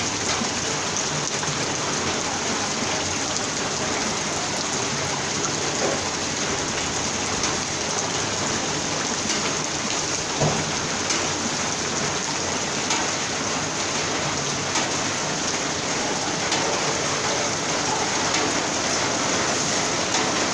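Heavy rain falling steadily, a dense even hiss with a few sharper drop hits, one a little louder about halfway through.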